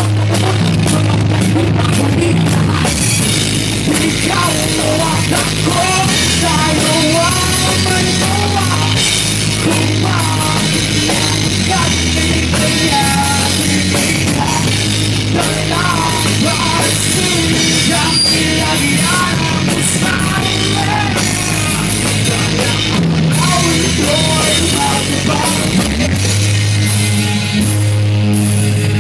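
Rock band playing live, with drum kit and bass under a wavering melodic lead line, an instrumental stretch of the song.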